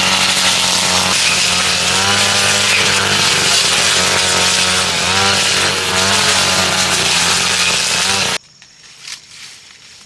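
A small engine-driven machine running loudly at a steady high speed, its pitch wavering slightly, cut off abruptly about eight seconds in. After that there are only a few light ticks and rustles.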